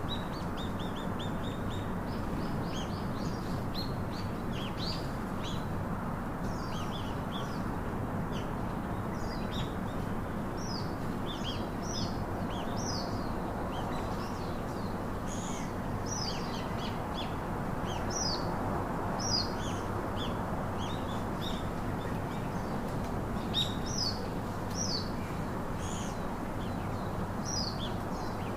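Songbirds chirping and twittering, many short high chirps and quick trills overlapping, over a steady low rushing background noise.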